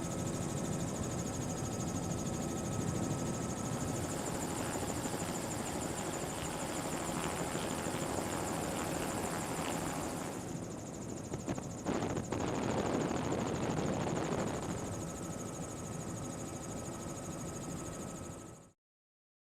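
A steady mechanical drone with a high whine, with a few sharp knocks about eleven to twelve seconds in; it cuts off suddenly near the end.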